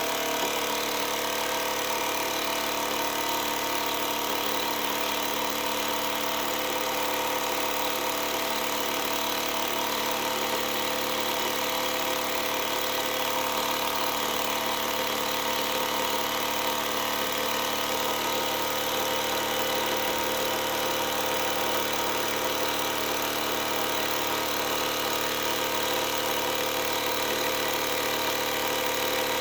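Model Stirling engine running at a steady speed on its dry, unlubricated bearings, heated by a gas stove flame; a constant whirring hum with several steady tones that hold their pitch.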